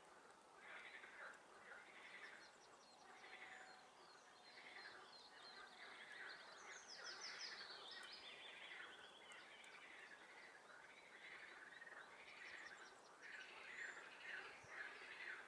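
Faint chorus of frogs calling in a swamp, rapid pulsed croaks repeating over and over. A songbird sings a falling trill over them about halfway through.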